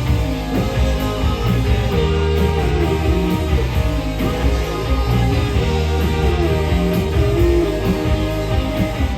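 Live rock band playing, with electric guitar prominent over steady bass.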